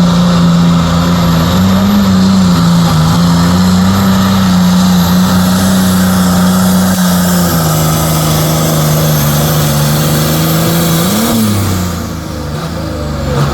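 Pulling vehicle's engine running hard at high, steady revs under load during a pull, its pitch wavering a little. About eleven seconds in it rises briefly, then drops off and gets quieter as the throttle comes off.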